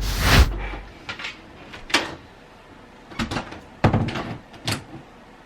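A brief rush of noise, then about six scattered knocks and clicks.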